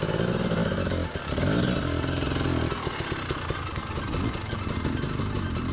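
Dirt bike engine revving, its pitch rising and falling as the throttle is worked, with a brief drop about a second in.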